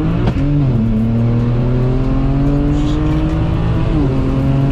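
Turbocharged BMW N54 twin-turbo inline-six, running upgraded turbos, pulling hard at full throttle, heard from inside the cabin. The engine note climbs steadily through the gear, with a quick upshift just after the start and another about four seconds in.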